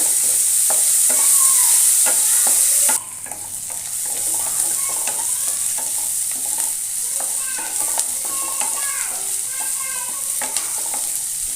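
Chopped onions frying in hot oil in a pan, sizzling as they are stirred, with light clicks of the utensil against the pan. The sizzle drops suddenly about three seconds in and goes on more quietly.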